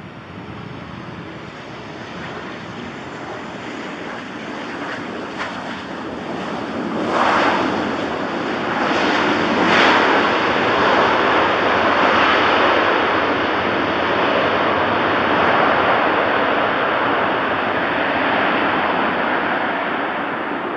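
Boeing 737 jetliner arriving, its engine noise a rushing roar that builds over several seconds, stays loud for most of the pass, then begins to fade near the end.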